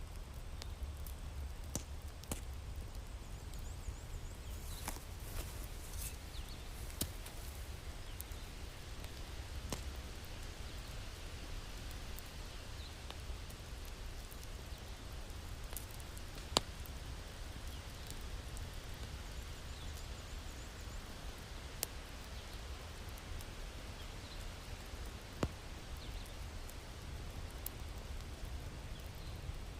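Wood fire crackling in a fireplace: scattered sharp pops and snaps over a low steady rumble, with one louder pop about halfway through.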